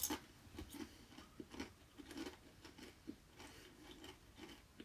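Faint, scattered crunching and scraping of soil and rubble being disturbed, with a sharp click at the very start.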